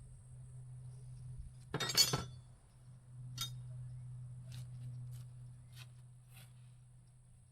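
Metal pieces clinking and clattering as they are handled: one loud clattering clank about two seconds in, then several light clicks and taps. A steady low hum runs underneath.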